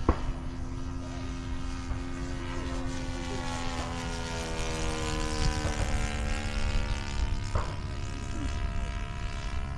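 Radio-controlled model airplane's motor and propeller droning steadily in flight, its pitch drifting gently as it flies past.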